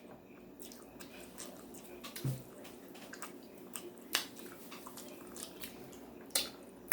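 Quiet mouth sounds of someone eating a chicken sandwich: scattered soft clicks and smacks of chewing, a few louder ones spread through.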